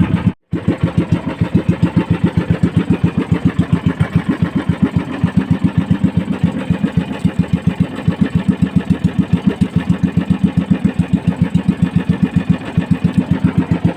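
Small boat engine of a motorized outrigger fishing boat running steadily with an even, rapid putter. It cuts out completely for a moment about half a second in.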